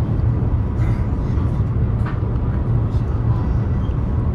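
Steady low rumble of a high-speed passenger train running at speed, heard inside the carriage.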